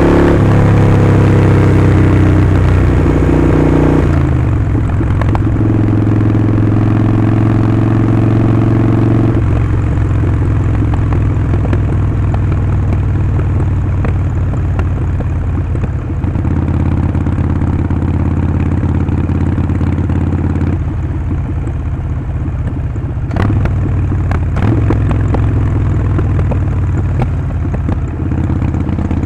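Harley-Davidson Sportster 48's air-cooled 1200 cc V-twin running under way through a Vance & Hines slip-on exhaust. Its pitch holds steady, then jumps to a new level several times, as with gear changes, and there are two sharp clicks near the end.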